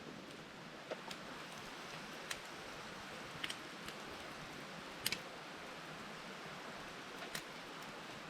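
Wood campfire crackling, with a handful of sharp, irregular pops over a steady hiss; the loudest pop comes about five seconds in.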